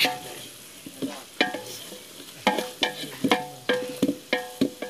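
A spoon stirring in a metal cooking pot, knocking against its side about a dozen times at an uneven pace, with each knock ringing briefly.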